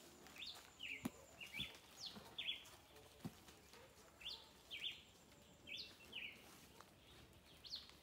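A bird calling faintly and repeatedly with short, high chirps, often in quick twos or threes. Two faint knocks sound about one and three seconds in.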